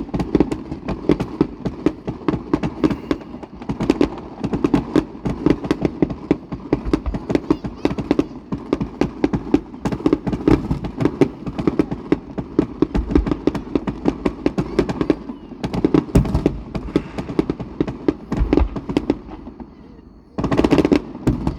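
Fireworks going off in rapid succession: a continuous run of sharp crackling pops, many a second, with deeper booms now and then. Near the end a brief loud rushing hiss.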